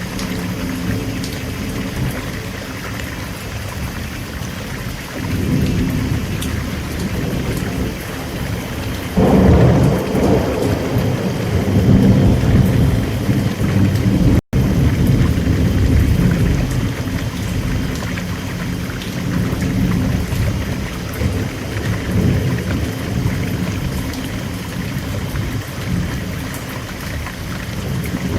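Steady rain with rolling thunder: a low rumble builds about five seconds in and a louder peal breaks about nine seconds in and rolls on. The sound drops out for an instant about halfway through.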